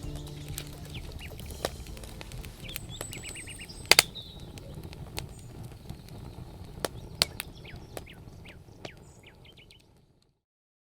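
Small birds chirping in short calls over a low outdoor rumble, with scattered sharp clicks and snaps, the loudest about four seconds in; everything fades out near the end.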